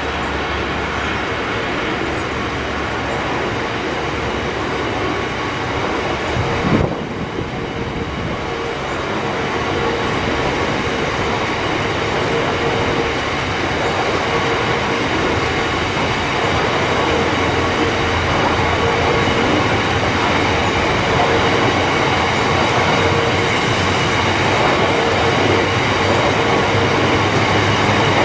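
Biomass hopper wagons of a freight train rolling past: a continuous rumble and rush of steel wheels on rail, with a faint steady tone over it, growing slightly louder after about ten seconds. A single sharp knock stands out about seven seconds in.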